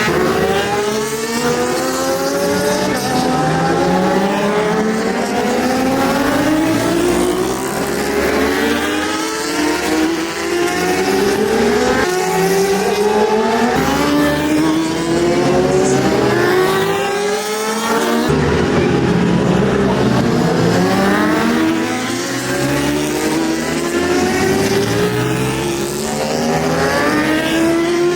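Motorcycle engines revving hard. The pitch climbs over and over, each rise cut off by a drop as the gear changes, then climbs again.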